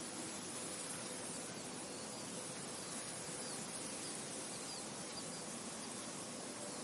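Steady outdoor ambience: an even hiss of wind and insects, with a few faint, short, high bird chirps in the middle.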